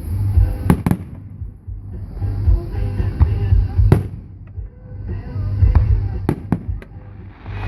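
Fireworks shells bursting with sharp bangs over a low booming rumble: two bangs close together within the first second, one about four seconds in, and a quick cluster of several just after six seconds. Music plays underneath throughout.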